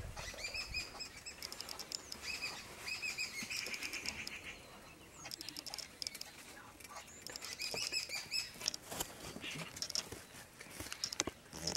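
Small birds chirping in short trills of rapid notes, repeated every second or two, with a lull about four seconds in. Scattered sharp clicks and knocks come in the second half.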